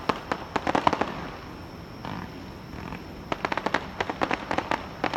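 Fireworks display: rapid clusters of sharp crackling pops from crackling-star shells, one burst of crackle in the first second and another from a little after three seconds in, with softer, duller bursts between them.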